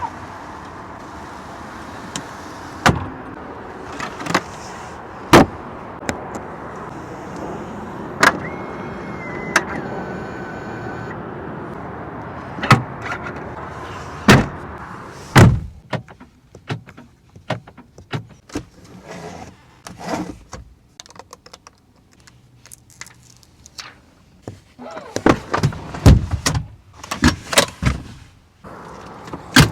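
Cadillac Escalade's doors and controls being worked: a steady hum with scattered sharp clicks, and a brief tone that steps down in pitch around the middle. After that come many quick clicks and knocks of latches and switches, growing dense and loud near the end.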